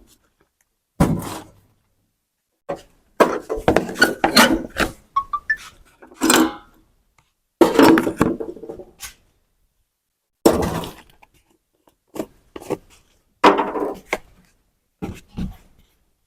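Metal tools and parts clanking and knocking in short bursts, about eight of them, with silent gaps between, as work goes on on an old tractor.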